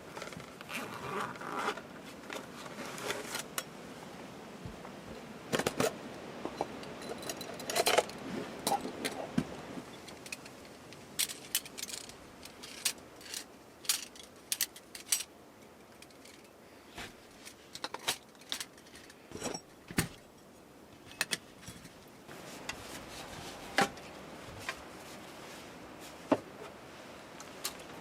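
Scattered clicks, clinks and short scrapes of small hard objects being handled, over a faint steady background hiss.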